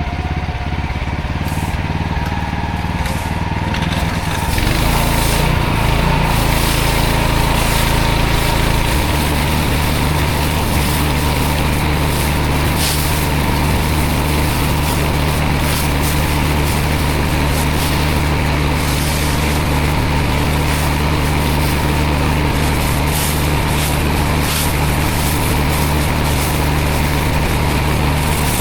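Pressure washer engine running steadily under the hiss of high-pressure water spray. Its note shifts about four and a half seconds in and again about nine seconds in.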